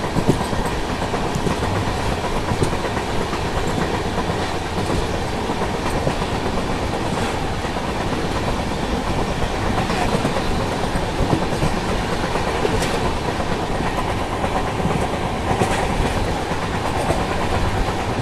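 Passenger train coaches running at speed: a steady rumble and rush of wheels on rails, with occasional clicks of the wheels over rail joints, heard loud and open from the coach doorway.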